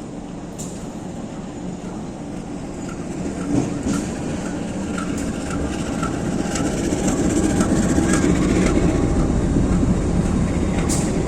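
Train approaching, its low rumble building steadily louder as it nears.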